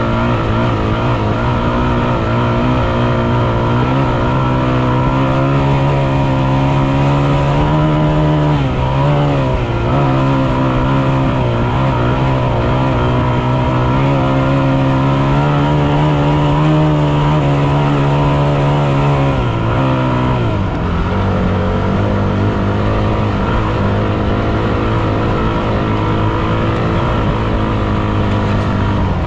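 Yamaha WR250F's single-cylinder four-stroke engine running, its note holding fairly steady, with a brief dip about nine seconds in and a drop to a lower pitch about twenty seconds in.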